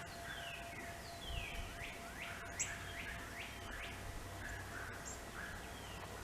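Several wild birds singing and calling: sweeping whistled notes, with a run of about five quickly rising notes in the middle, over a faint steady tone.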